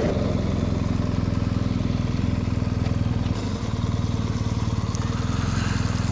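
BMW R 1250 GS boxer-twin motorcycle engine running at steady low revs while being ridden, with a brief dip in level about three and a half seconds in.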